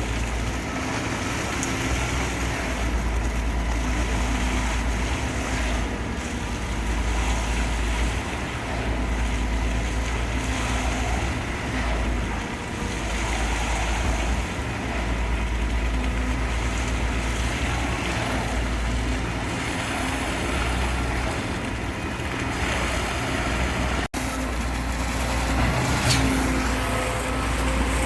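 A motor vehicle running on the road, with steady engine and road noise and low rumble that swells and eases every few seconds. The sound cuts out for an instant near the end.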